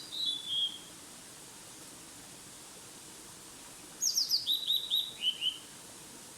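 A small songbird singing: a short high phrase right at the start, then about four seconds in a longer phrase of quick notes that step down in pitch.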